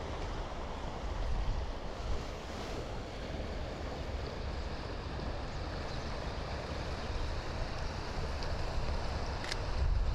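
Steady hiss of soft rain and wind in the trees, with wind rumbling on the microphone; a faint tick sounds once near the end.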